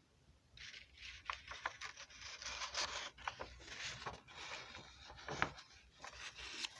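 Scratchy rustling and scraping noise with a few sharp clicks, starting about half a second in.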